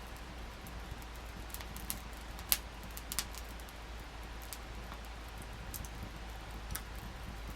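Wood fire crackling, with scattered sharp pops of burning wood, the loudest about two and a half seconds in, over a steady low rumble.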